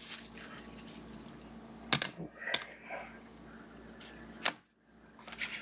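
Trading cards being handled on a table: rustling, with three sharp clicks as cards are set down or tapped.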